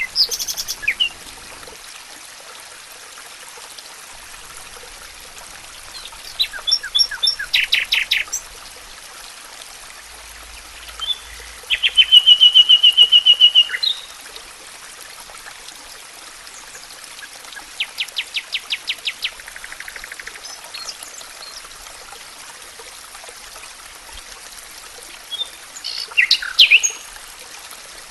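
Wild birds singing in about five separate phrases of quick, repeated high notes. The loudest is a fast, even trill a little before the middle. Underneath runs a steady rush of flowing stream water.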